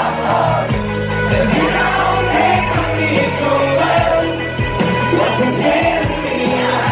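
Live pop music played loud over a concert PA, with a steady bass line and singing.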